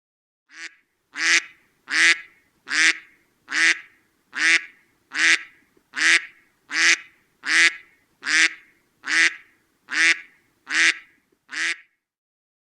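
An animal-like call, short and nasal-sounding with several tones stacked together, repeated fifteen times at an even pace of about one every 0.8 seconds. The first call is fainter than the rest.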